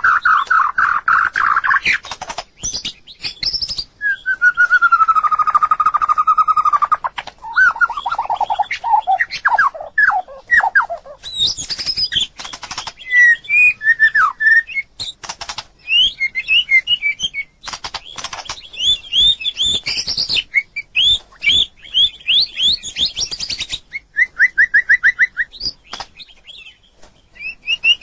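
White-rumped shama singing a long, varied song: rapid trills and quick repeated notes, slurred whistles that glide down in pitch, and sharp clicks between phrases.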